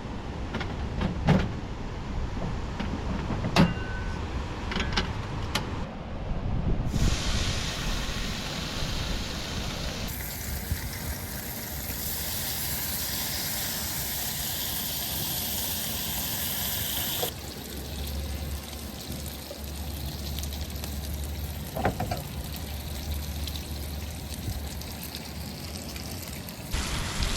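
Breakfast cooking in a few short clips: some knocks and clatter of cookware, then a steady hissing sizzle of food frying in greasy cookware, changing in character at a cut about seventeen seconds in.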